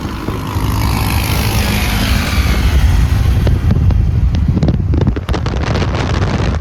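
Car driving fast past the camera, its engine and road noise falling in pitch as it goes by, with wind buffeting the microphone.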